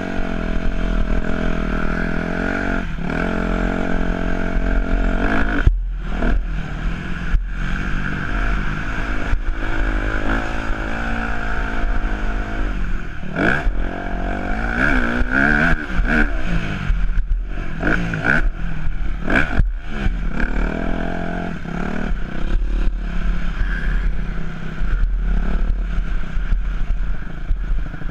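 Yamaha YZ250F four-stroke single-cylinder motocross engine revving up and down again and again as the bike is ridden, with clattering knocks from the bike through much of the run.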